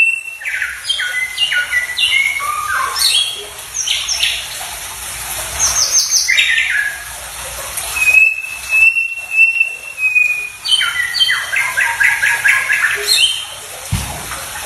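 Songbird song for tutoring caged birds: long held whistles alternating with quick runs of sliding chirps and a fast series of repeated notes.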